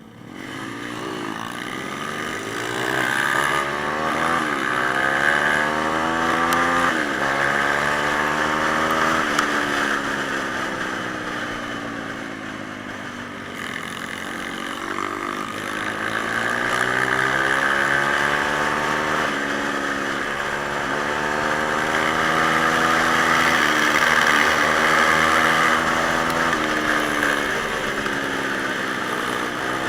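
Pit bike engine being ridden, its pitch climbing and falling again and again as the rider revs up and eases off through the gears.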